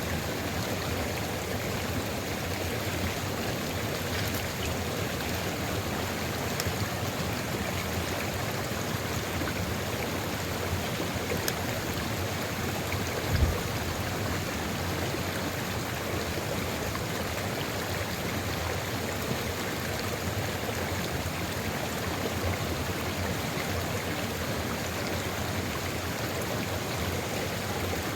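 Sulfur river at Ijen crater flowing steadily, a stream's even rushing and gurgling. A single brief low thump sounds about halfway through.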